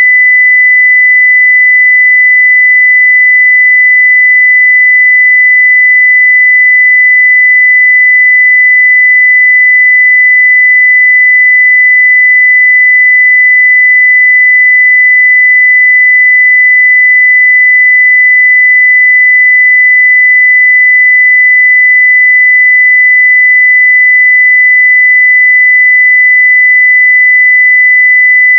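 A continuous 2 kHz sine-wave test tone at full level (0 dB), steady and unchanging, with no other sound.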